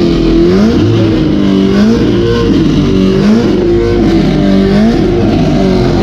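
A car engine being revved over and over, its pitch rising and falling about once a second.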